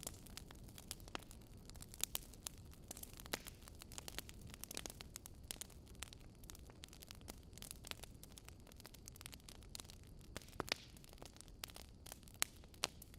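Fire crackling, with frequent irregular sharp pops and snaps over a low steady rumble.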